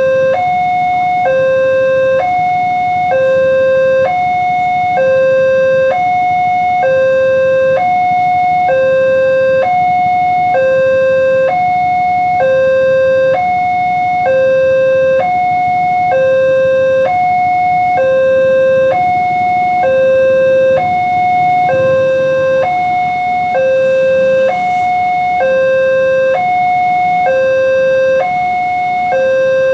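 Electronic warning alarm of an Indonesian railway level crossing, sounding two tones in turn, a higher and a lower one of about equal length, in a steady repeating pattern that signals an approaching train.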